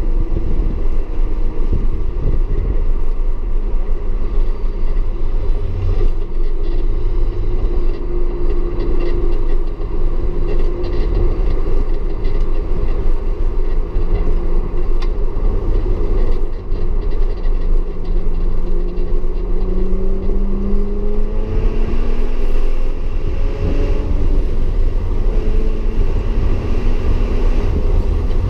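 Audi S4 engine running hard at speed over a heavy, steady rumble. Its pitch climbs in several long rises in the second half, as the car accelerates through the gears.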